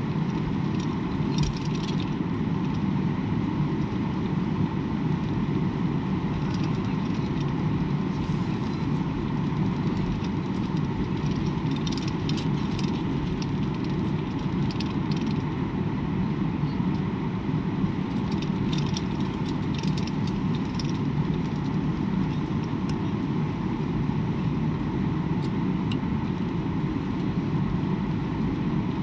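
Airliner cabin drone while taxiing before takeoff: the jet engines running low and steady, with a faint steady whine and short light rattles and clicks now and then.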